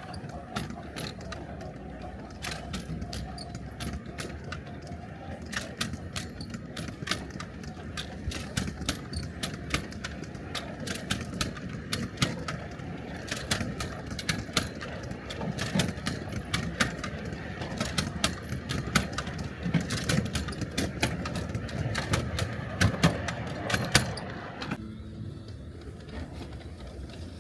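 Miniature railway train running, a steady rumble with many irregular sharp clicks and clatter from the wheels and cars, which stop abruptly near the end.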